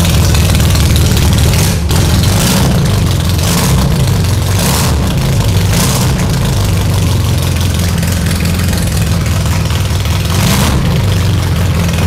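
Race-built classic Mini A-series four-cylinder engine running on its stand after a week unused. It is revved in short blips a few times in the first half and once more near the end.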